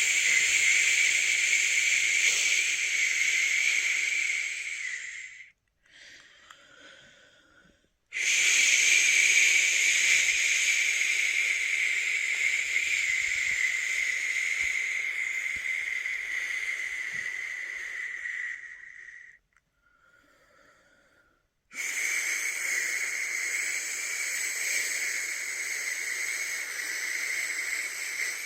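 A person making long 'shhh' shushing sounds: three drawn-out shushes, each trailing off, with two short, much quieter pauses for breath between them. This is the shushing used to soothe a newborn to sleep.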